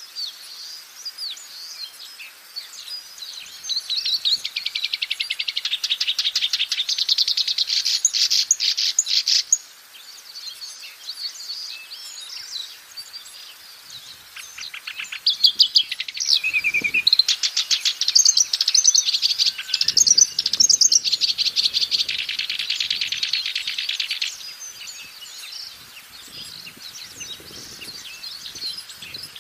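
Black-browed reed warbler singing: varied chattering phrases, with a long, fast, rattling run of repeated notes from about 4 to 9 seconds in and another from about 17 to 24 seconds, and quieter scattered notes between.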